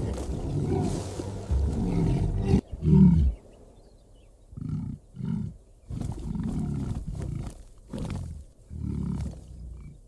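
Lion roaring: a sustained low roar that peaks loudest about three seconds in, followed by a series of shorter roars about a second apart with short gaps between them.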